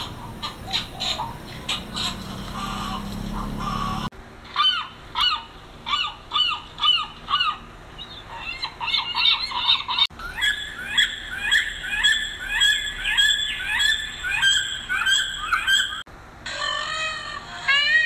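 Several different birds calling in turn, with abrupt changes every few seconds: short repeated calls, several a second.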